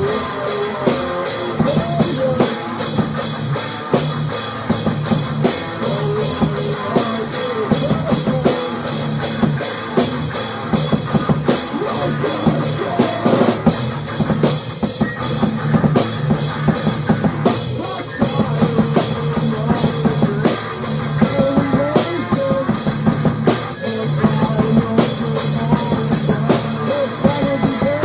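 Instrumental rock music: a drum kit playing a steady beat with bass drum and cymbals over guitar and bass.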